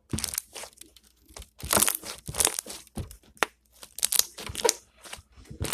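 Slime being squished and stretched by hand, with irregular bursts of wet crackling and small popping sounds as air pockets burst.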